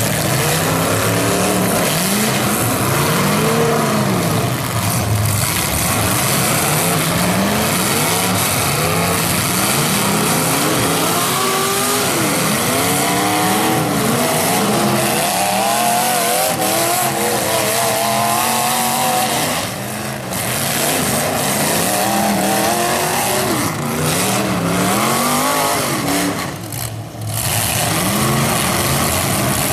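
Several demolition derby cars' engines revving hard, the pitch climbing and falling again over and over, loud and continuous.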